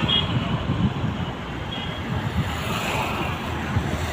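Steady road-traffic and engine noise with wind buffeting the microphone, in uneven low rumbling gusts.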